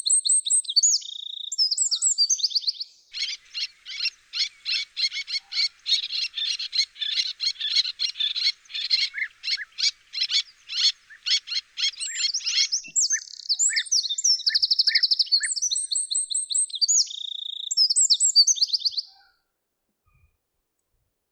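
Birds singing with high whistled phrases. For about ten seconds in the middle, a rapid series of dry clicking notes at about three a second runs under the song. The birdsong stops abruptly about nineteen seconds in.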